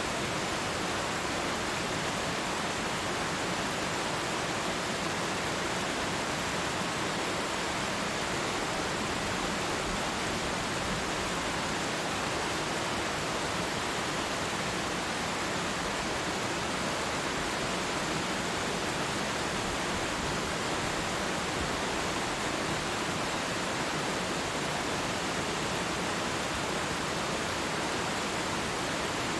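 Waterfall: a steady, unbroken rush of falling water with no distinct splashes or changes.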